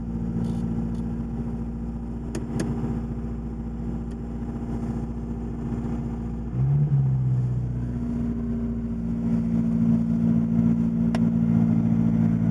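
Porsche 924 Turbo's 2.0-litre turbocharged four-cylinder engine running steadily through a 2.5-inch straight-pipe exhaust. About six and a half seconds in the sound jumps louder with a brief pitch glide, and from about nine seconds it runs louder and steady.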